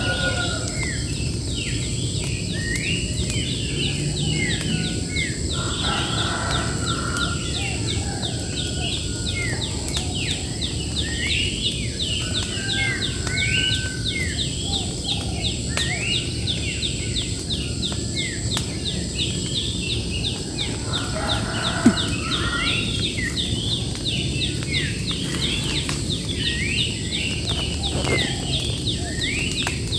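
Birds singing: many quick rising chirps all the way through, over a steady low rumble and a faint steady high whine. A single sharp click comes about two-thirds of the way in.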